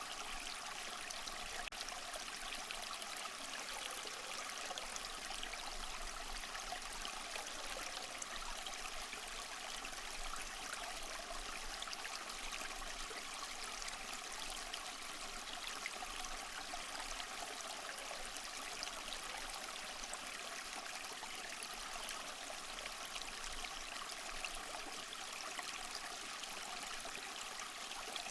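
Small waterfall splashing and trickling steadily: a continuous, even rush of water, mostly hiss with little low rumble.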